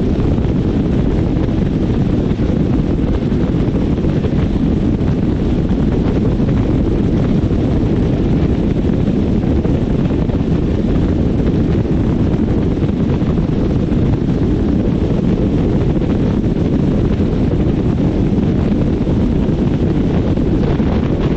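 Loud, steady wind buffeting the microphone on a motorcycle riding at road speed, with no engine note standing out.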